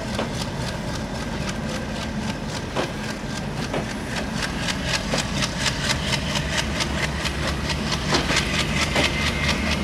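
Bangladesh Railway intercity passenger coaches rolling past slowly as the train pulls out of the station, their wheels clacking over the rail joints over the low drone of the diesel locomotive. The clacks come faster in the second half as the train picks up speed.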